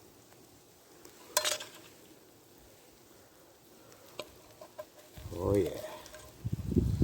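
A utensil scrapes sharply against a wrought-iron skillet about a second and a half in, followed by a few light clicks, over a faint sizzle of frying beef strips. A low rumble starts near the end.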